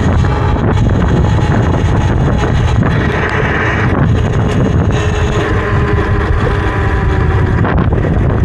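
Loud wind buffeting on the microphone of a rider moving on a Talaria electric dirt bike, with a faint steady whine of the bike's electric drive underneath.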